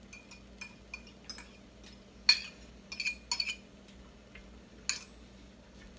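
Metal fork clinking and tapping against a cooking pan while stirring onions and green peppers: a scatter of sharp clinks, the loudest about two seconds in and a quick cluster around the middle.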